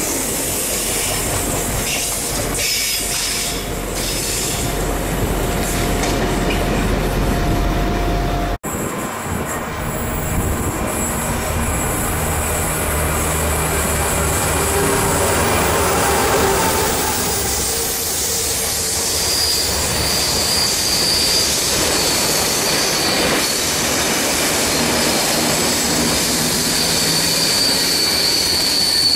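Tank wagons of a freight train rolling past with steady wheel and rail noise. After a cut about eight seconds in, a Class 66 diesel locomotive (EMD two-stroke V12) runs past hauling open box wagons, its engine a low hum under the wagon noise. In the second half a high, steady wheel squeal rises over it.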